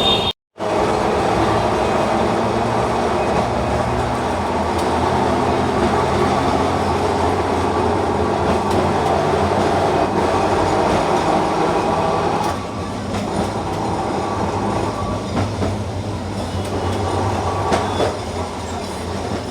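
Electric street tram running along its rails, a steady rumble of wheels and motor with a low hum. It eases slightly about twelve seconds in.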